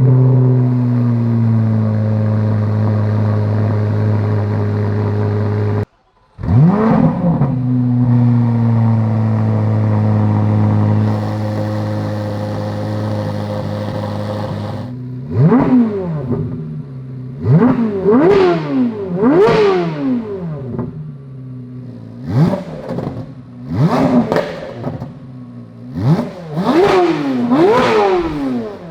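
Corvette C8 Z06's flat-plane-crank V8 heard through its exhaust: it comes down from a start-up flare into a steady idle, cuts off abruptly about six seconds in, then starts again with a second flare and settles to idle. From about fifteen seconds on it gives a series of about nine quick free revs, each rising sharply and falling back to idle.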